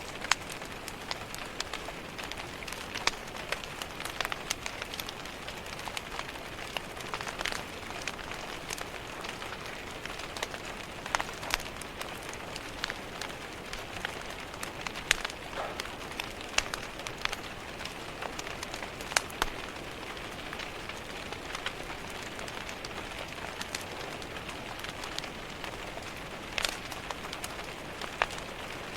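Steady rain hiss with the crackle and sharp pops of a wood fire in a fireplace, scattered irregularly throughout.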